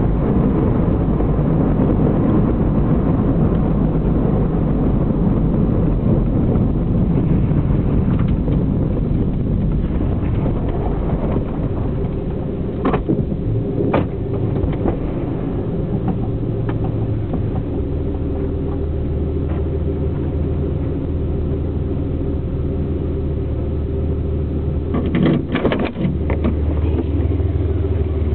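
Oldsmobile station wagon's exhaust, through a newly fitted muffler, heard from inside the trunk while driving. A loud, dense rumble settles into a steadier low drone a little past halfway, with a few short knocks and a cluster of thumps near the end.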